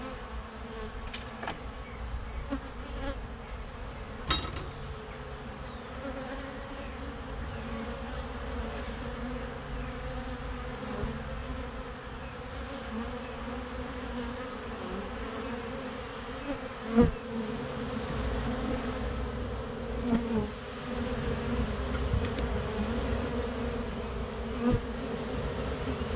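A honeybee colony buzzing steadily while it is opened up and disturbed during a removal, with a few sharp knocks now and then.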